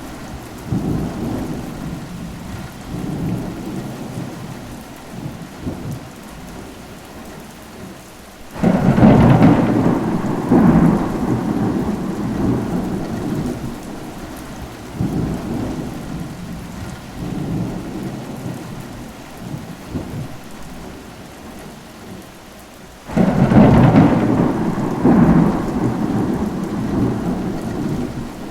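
Steady rain with thunder: two loud peals break in suddenly, about nine seconds in and again about twenty-three seconds in, each dying away over several seconds into the rain.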